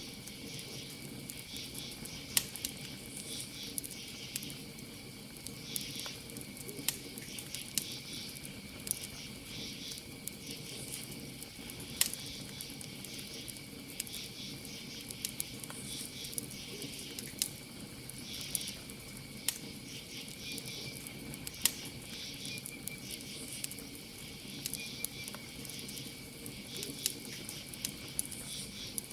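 Campfire crackling, with sharp pops scattered irregularly through it, over a steady high trill of crickets.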